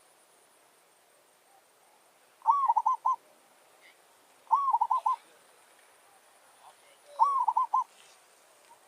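Zebra dove (merbok) cooing: three short phrases, each a quick run of four or five staccato notes, a couple of seconds apart.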